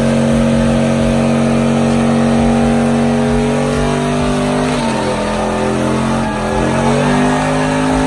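Truck engine held at high revs, its pitch steady, then dropping about five seconds in before being revved back up near the end.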